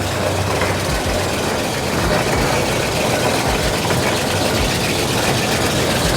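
1950s wool-yarn processing machine, pieced together from 1952 and 1959 parts, running: a loud, dense, steady mechanical noise with irregular low knocks.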